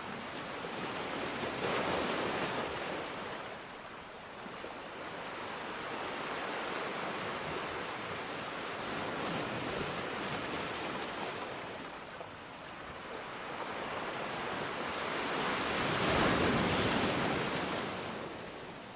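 Sea waves washing onto the shore over a steady hiss of rain. A wave surges about two seconds in, and a bigger one swells and breaks near the end.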